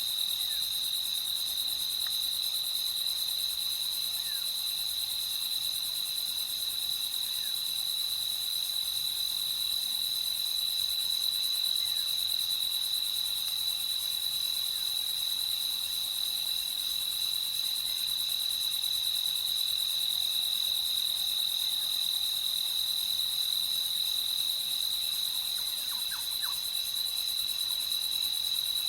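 Crickets trilling in a steady, unbroken high night chorus, with a few faint short chirps from another creature near the end.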